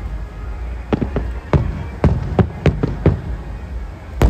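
Aerial firework shells bursting in quick, irregular succession, about eight sharp bangs, over a steady low rumble.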